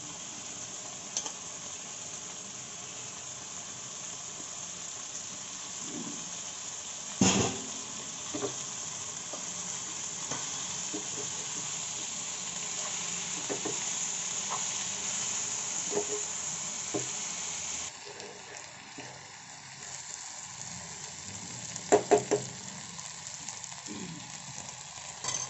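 Tomato, onion and freshly added sorrel leaves sizzling in a non-stick frying pan while being stirred with a metal spoon, with small clicks of the spoon throughout. The spoon knocks sharply on the pan about seven seconds in and three times in quick succession near the end. The sizzle drops quieter about two-thirds of the way through.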